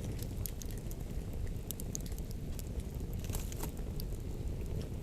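Wood campfire crackling, with scattered sharp pops and a small cluster about three and a half seconds in, over a steady low rumble.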